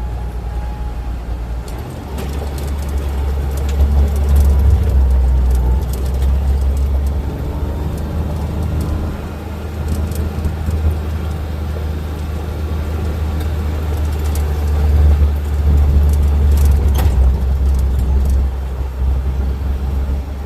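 Steady low rumble of a moving vehicle's engine and road noise heard from on board, swelling a little twice, with a few light knocks or rattles.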